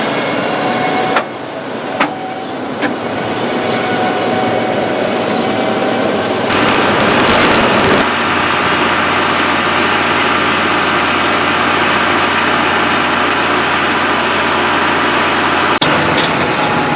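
Farm tractor engine running steadily in the field, with three short knocks early in the first few seconds.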